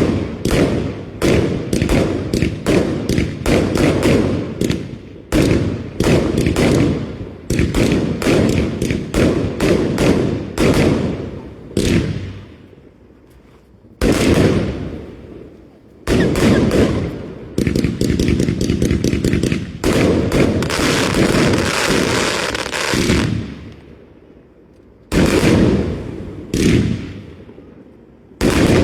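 Fireworks going off: a rapid barrage of sharp bangs, several a second. After a short lull comes a spell of dense crackling from about halfway through, then a few more single bangs near the end.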